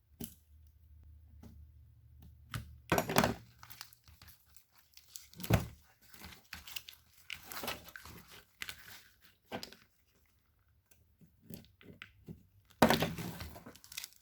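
Electrical tape and plastic loom being torn and pulled off a car engine wiring harness by hand: irregular ripping and crinkling with a few louder rips, the loudest near the end.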